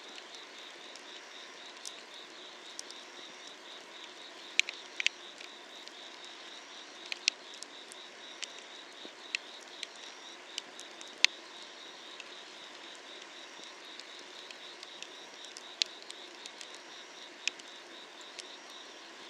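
Firewood burning under an iron cauldron, crackling with irregular sharp pops and snaps. Behind it, a steady chorus of summer-night insects keeps up a pulsing high trill.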